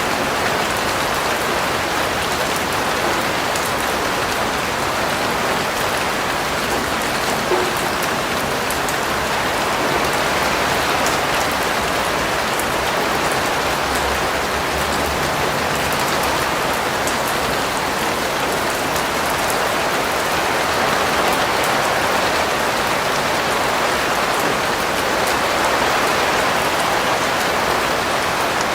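Steady rain falling on a surface, an even hiss of rain with scattered individual drops ticking through it.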